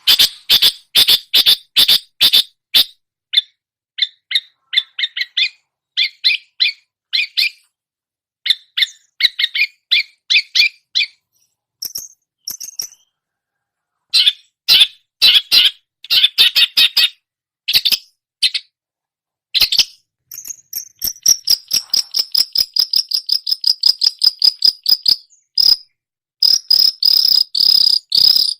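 Long-tailed shrike (cendet) singing in mimicry of other songbirds: bursts of sharp, rapidly repeated high chips with short pauses, running into a fast trill and a held high note near the end.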